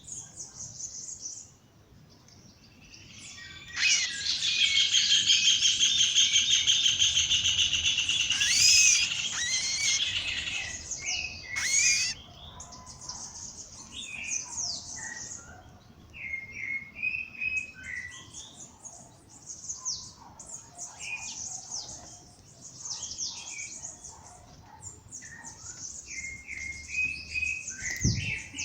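Several birds singing in a dawn chorus. About four seconds in, one bird close by gives a loud, rapid trill lasting about six seconds; afterwards scattered chirps and short whistled phrases from several birds carry on.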